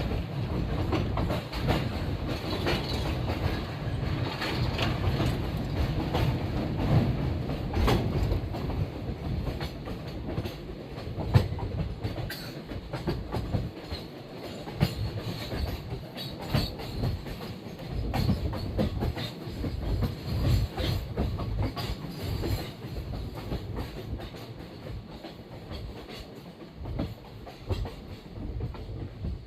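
Train running on its rails: a steady low rumble with irregular clatter of the wheels over the track.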